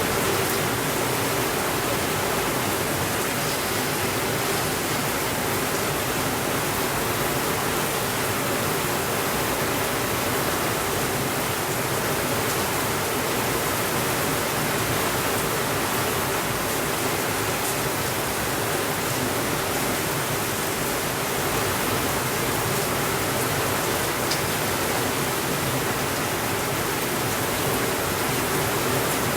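Steady rainfall, an even hiss that doesn't change, with a few faint ticks here and there.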